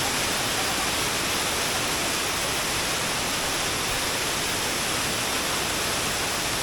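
A waterfall rushing, with a steady, dense roar of falling water.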